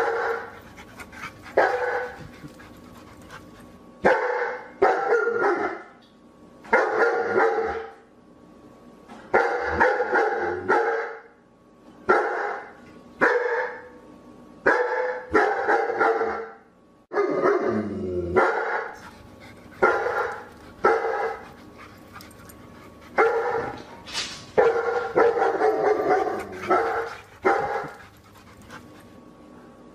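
A dog barking over and over in short barks, sometimes two in quick succession, with one- to two-second gaps between them.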